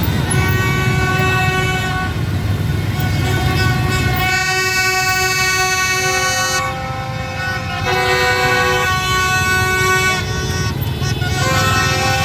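Several horns blowing long, held tones at different pitches over each other, over the rumble of motorbike traffic. The tones ease off briefly around seven seconds in, then start again.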